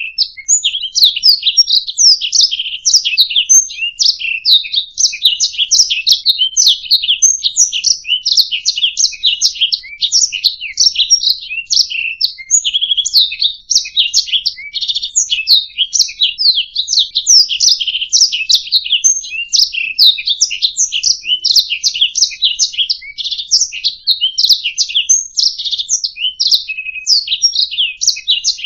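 Domestic canary singing a continuous, high-pitched song of rapid trills and chirps, with no pauses.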